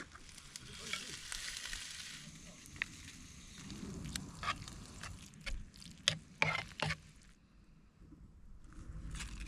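Food sizzling as it fries in a pan over the fire, with a run of sharp clicks and knocks partway through. The sizzle cuts off suddenly after about seven seconds and comes back near the end.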